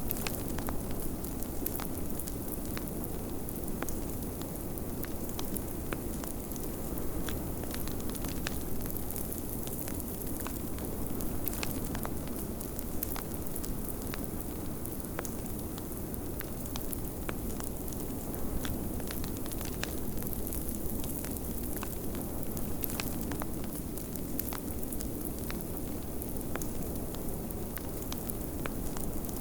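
Wood fire crackling in a fireplace, with frequent scattered sharp pops, over a steady low rush of blizzard wind.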